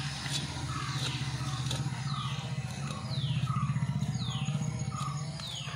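A bird calling over and over: short, high notes that fall in pitch, repeating roughly every two-thirds of a second, over a low steady hum.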